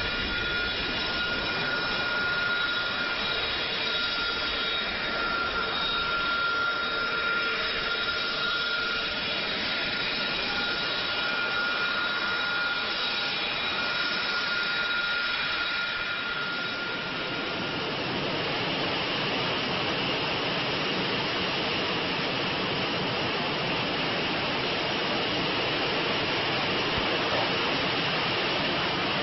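Fighter jet engine running at high power: a steady rushing noise with a high whine over it. About two-thirds of the way through, the whine fades and a broader, hissier rush takes over.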